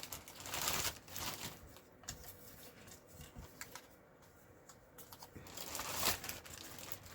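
Paper and cardstock rustling as small cut pieces are handled and sorted, with light taps and clicks between; the rustling swells about half a second in and again around six seconds in.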